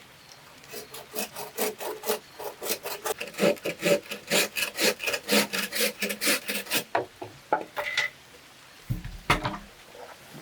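A hand tool rasping against bamboo in quick repeated strokes, several a second, which stop about seven seconds in; a few single strokes follow, then a dull knock near the end.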